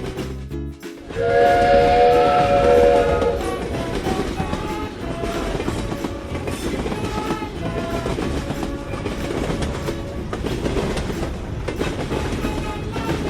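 A train horn sounding one chord for about two seconds, over the steady rumble of a train running on the rails.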